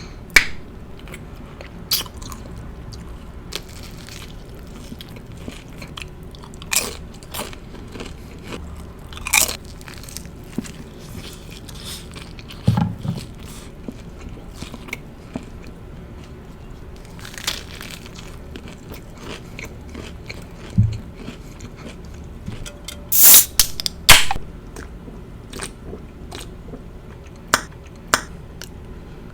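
Close-miked biting and chewing of a small stacked sandwich, with scattered crisp crunches between quieter stretches of chewing. The loudest burst of crunching comes a little past two-thirds of the way through.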